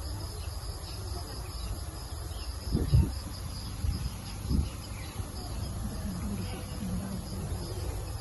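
Insects chirping steadily in a high, faintly pulsing band, over a low rumble, with two short low thumps about three and four and a half seconds in.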